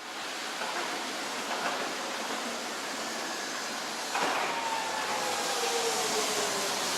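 Hiroshima streetcar running with a steady rumble. About four seconds in there is a sharp clunk, then the electric traction motor's whine falls slowly in pitch as the tram slows.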